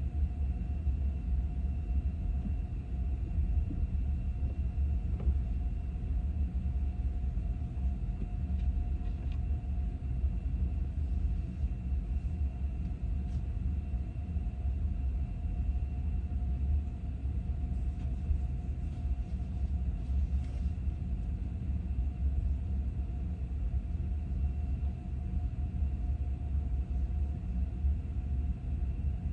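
Steady low rumble of a vehicle in motion, with a faint steady hum over it.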